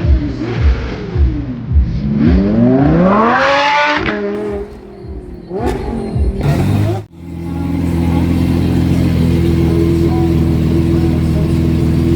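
A supercar engine revved in quick blips, its pitch jumping up and falling back, then one long rising rev partway through. After a sudden break about seven seconds in, an engine idles steadily.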